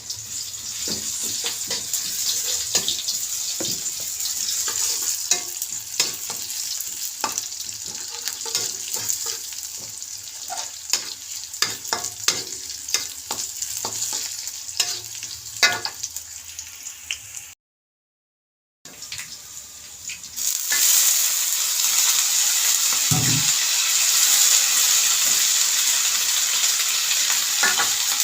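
A stir-fry sizzling in a pan, with a spatula clicking and scraping as it is stirred. The sound cuts out for about a second just past the middle, then returns as a louder, steady sizzle.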